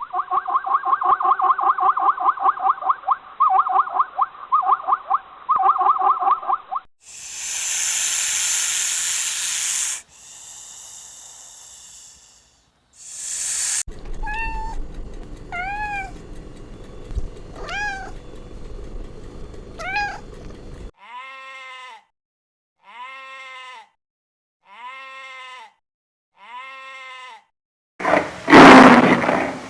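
A string of separate animal calls, mostly domestic cat: a rapid pulsing call for about seven seconds, two hisses, a run of short rising-and-falling cries, then four short meows evenly spaced. A loud harsh call comes in near the end.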